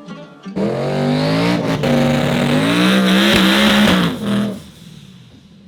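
Drag car engine at full throttle, accelerating hard down the strip. Its pitch climbs, dips briefly at the gear changes and climbs again, then the sound falls away suddenly near the end.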